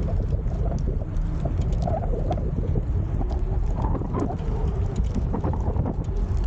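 Wind buffeting the microphone of a camera on a moving bicycle: a steady low rumble, with faint scattered clicks over it.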